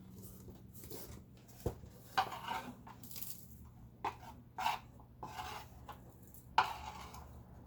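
Irregular scraping and rustling as packed dust and debris are cleared out of a vacuum cleaner, with one sharp click about a second and a half in.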